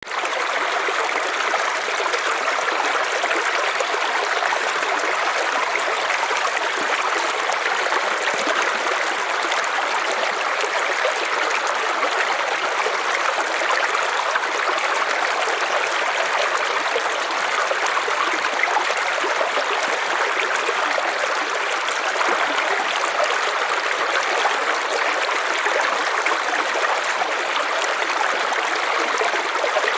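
A river flowing: steady rushing and splashing water with no breaks.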